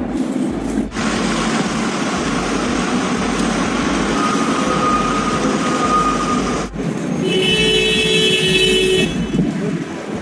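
Snowy city street traffic: vehicles running with a steady noise, broken by two abrupt cuts between clips, and a vehicle horn sounding for about two seconds near the end.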